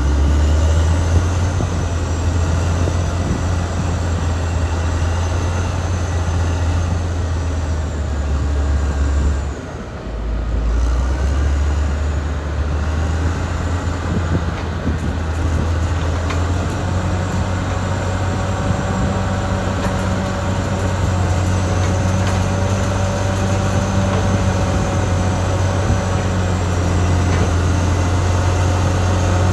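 Caterpillar D6R XL bulldozer's diesel engine running steadily under work, with a low, even hum and fainter whining over it from the tracked machine. The engine note drops briefly about ten seconds in, then picks back up.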